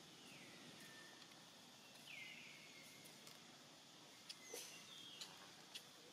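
Faint forest ambience with two whistled bird calls, each falling in pitch and then levelling off, the first at the start and the second about two seconds in. A few light clicks follow near the end.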